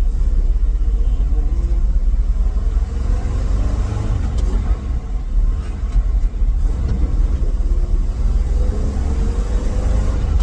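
Old Ford F350 dump truck's carbureted engine running under load with a deep rumble, its pitch climbing as the truck picks up speed, once about three seconds in and again near the end.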